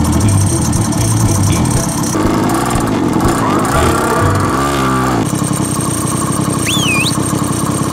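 Small pocket-bike engine running, with music playing over it.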